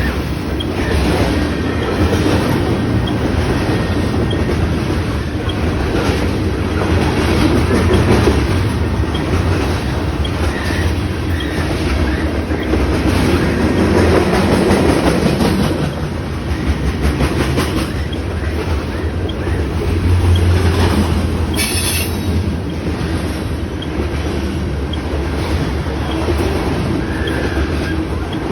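Loaded freight cars of a grain train rolling past at close range. The wheels clack steadily over the rail joints, with a few short high wheel squeals.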